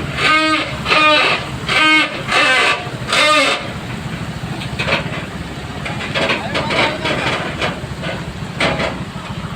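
A voice calling out in five loud, drawn-out shouts over the first three seconds or so, over a steady low rumble of heavy-vehicle engines that carries on alone after the shouts stop.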